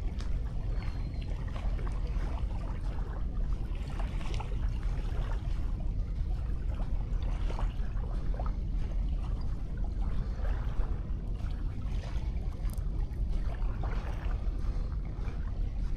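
Small sea waves washing and lapping on a sandy beach: a steady wash of water with a low rumble underneath and scattered light crackles.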